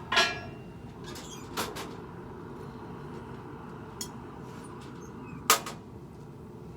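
Blacksmith's hammer striking hot steel on the anvil, four spaced blows: a loud ringing one at the start, a lighter one about a second and a half in, a faint tap near four seconds, and another loud one about five and a half seconds in. The blows are flattening the tip of a forged garden hoe.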